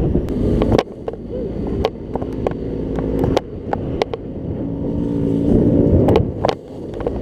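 Scooter engine running with a steady hum, under wind rumble on the microphone and frequent sharp clicks and knocks.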